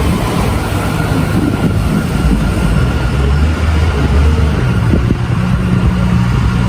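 City street traffic: motor vehicle engines running close by, a steady low rumble with no break.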